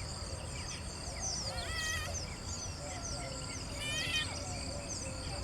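Wetland bird chorus: many birds chirping, with two louder, harsher wavering calls about two and four seconds in, over a steady high-pitched whine and low rumble.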